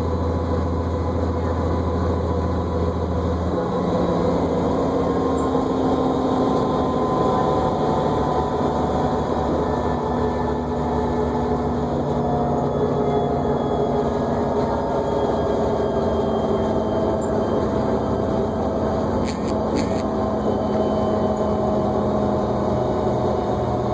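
Inside a New Flyer D40LFR diesel transit bus on the move: steady drivetrain rumble with a whine of several tones that drift slowly in pitch. A deep hum drops away a few seconds in, and two short clicks come near the end.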